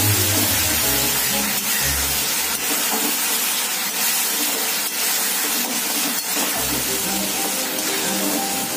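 Masala paste sizzling in hot mustard oil in a kadai as it is stirred with a flat spatula, an even frying hiss, with soft background music underneath.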